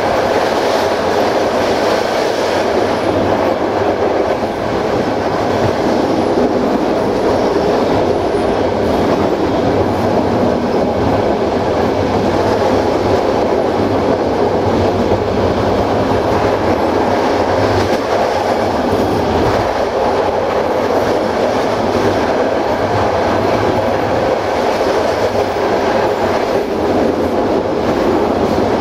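Passenger train running steadily along the line: a constant, even rumble of wheels rolling on the rails, with no stops or changes.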